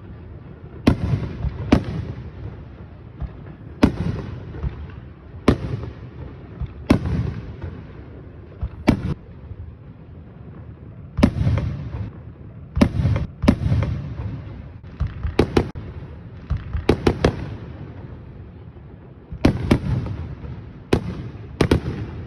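Fireworks display: aerial shells bursting with sharp bangs every second or two, some in quick pairs and clusters, each followed by a low rumbling echo.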